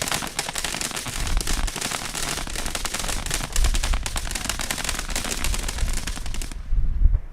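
Consumer firework cake firing a rapid, dense string of crackling reports, like machine-gun fire, that cuts off suddenly near the end.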